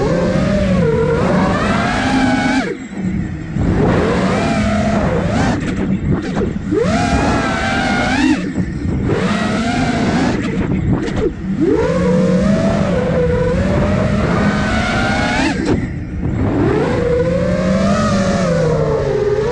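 Five-inch FPV quadcopter's brushless motors and propellers whining. The pitch surges up sharply as the throttle is punched, then sags, with brief drops in loudness several times as the throttle is cut.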